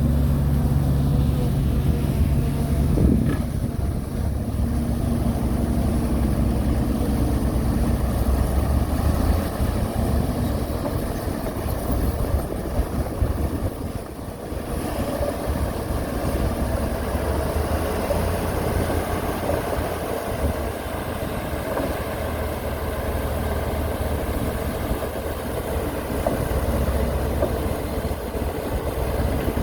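Heavy diesel engine of earthmoving machinery running steadily with a deep rumble, with a brief dip in level near the middle.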